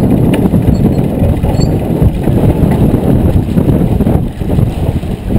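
Wind buffeting the microphone on a sailboat under way: a loud, uneven rumble with nothing pitched in it.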